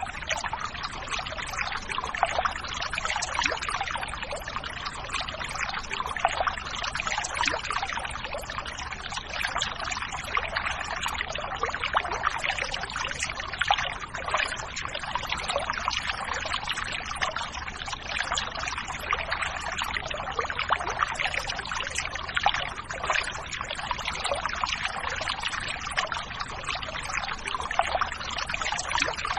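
River water running steadily, a dense stream of small splashes with no let-up.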